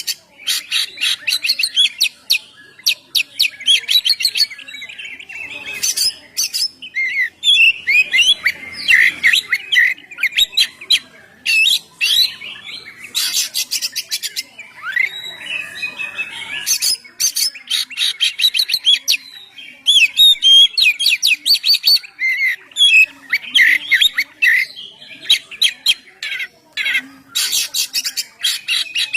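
Oriental magpie-robin (kacer) singing on and on in a loud, varied song: quick clear whistled notes run together with harsh, rapid rattling phrases, with only brief pauses.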